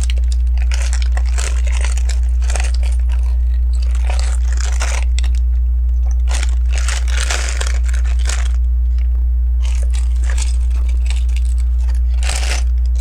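LEGO plastic bricks and pieces being handled, picked out and pressed together, making irregular clicks and rattles. Under them runs a steady low hum.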